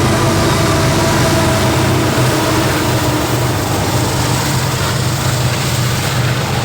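Train passing close by: a loud, steady rumble of wheels on rail with a low engine drone, and a few faint high tones in the first few seconds that fade away. The level eases slightly near the end.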